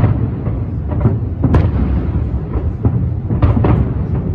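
Fireworks bursting: a dense, continuous rumble of bangs, with sharper single cracks about a second and a half in and a quick run of several near the end.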